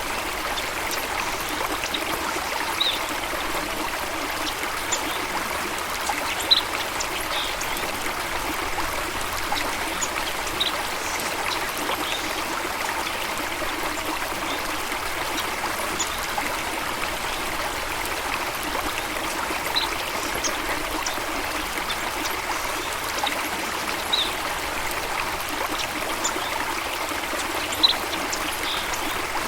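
Steady running water of a stream or small waterfall, trickling and splashing at an even level, with a few short high-pitched chirps every few seconds.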